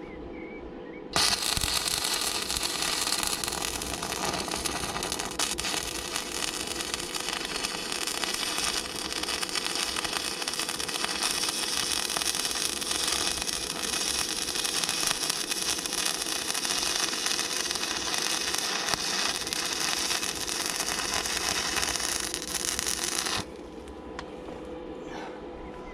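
Electric arc welder laying one continuous weld bead on steel: a steady, harsh sizzling noise that starts suddenly about a second in and cuts off abruptly about 22 seconds later.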